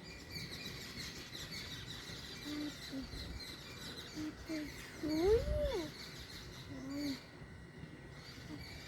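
Birds chirping lightly and continuously, with a few short lower calls that rise and fall in pitch; the longest and loudest comes about five seconds in.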